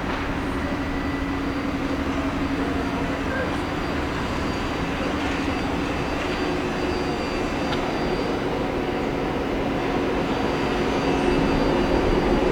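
Nishitetsu electric train at the platform, its equipment giving a steady low hum over a general rumble that grows louder near the end.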